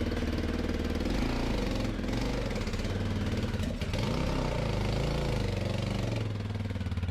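Honda XR600R dirt bike's single-cylinder four-stroke engine running hard under way, its pitch dipping and climbing a few times as the throttle and gears change.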